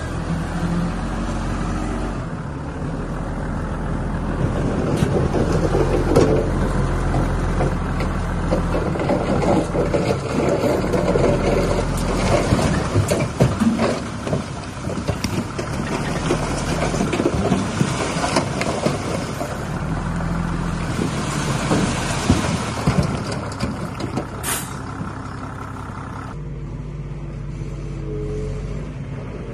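Heavy diesel earthmoving machinery working: an engine running steadily under a dense rattling and grinding clatter through most of the stretch, with a short sharp sound about 24 seconds in. The clatter drops away near the end, leaving the engine running.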